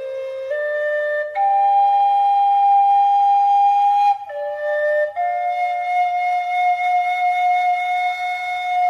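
Background music: a solo flute playing a slow melody. A few short notes step up to a long held note of about three seconds, then a lower note and another long held note.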